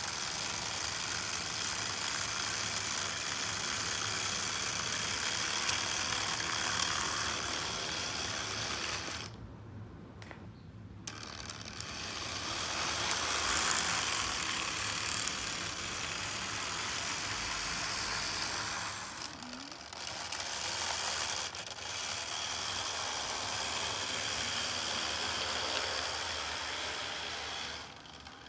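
Model train running on the layout's track: a small locomotive motor and metal wheels clattering steadily over the rails, dropping away briefly about a third of the way in and again near the end.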